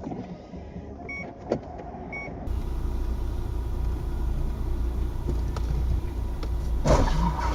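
Dashcam audio of cars on the road: steady low road and engine rumble, which jumps louder at a cut a couple of seconds in. A sudden loud bang comes near the end.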